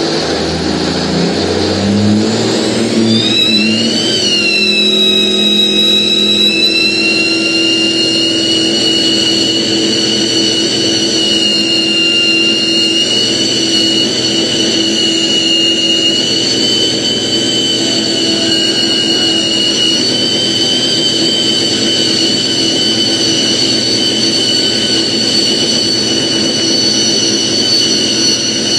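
1952 Kenworth Needle Nose big rig's diesel engine revving up over the first few seconds during a burnout. It is then held at high revs, with a steady high-pitched whine over the engine.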